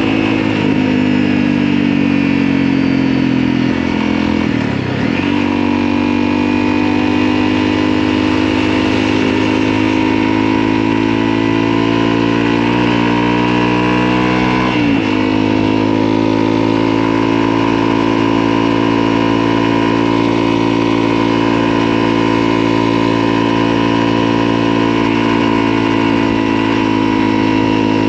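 Motorcycle engine running under way. The engine note drops and climbs back about five seconds in and again about fifteen seconds in, as at gear changes, and rises slowly between them.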